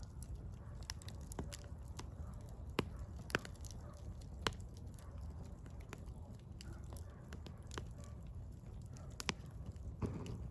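Firewood burning, crackling with irregular sharp pops over a low steady rumble; a few pops stand out louder.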